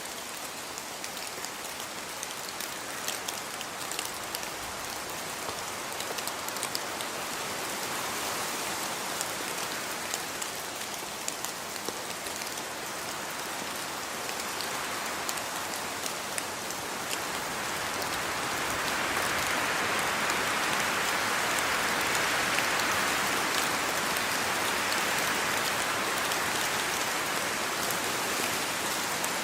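Steady rainfall, a dense hiss of drops with fine pattering on a surface, swelling heavier for several seconds past the middle before easing slightly.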